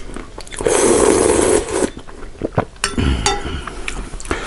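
Eating and tableware sounds: a loud noisy burst lasting about a second, then scattered clicks and a short clink of dishware.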